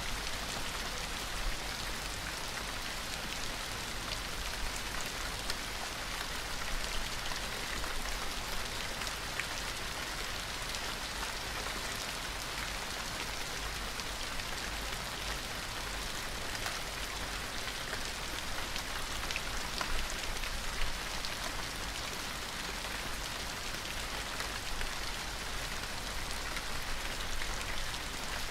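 Gentle rain falling steadily, with scattered individual drop ticks.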